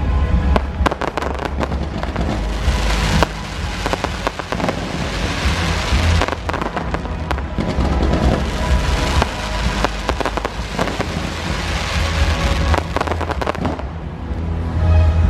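Fireworks show at full pace: many shells bursting in quick succession with a dense crackle, over the show's loud music soundtrack.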